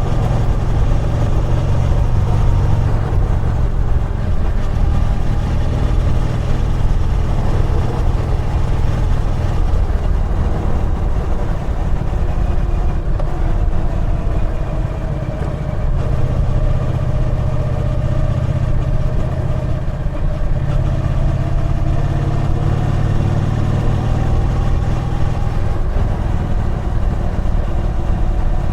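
Triumph Bonneville T120's 1200 cc parallel-twin engine running while riding, its pitch dropping a little about halfway through and then rising again as the throttle changes.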